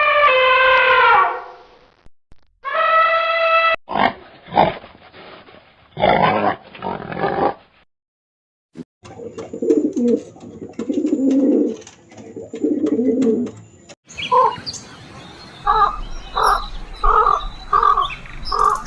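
A string of separate animal calls, one after another. It opens with two drawn-out goat bleats. Then come several short sharp sounds, three pulsing low calls, and a rhythmic run of repeated calls near the end.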